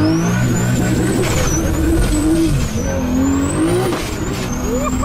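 Turbocharged 2JZ engine in a Nissan 300ZX revving up and down through its new custom exhaust. A high turbo whistle rises and falls with the revs.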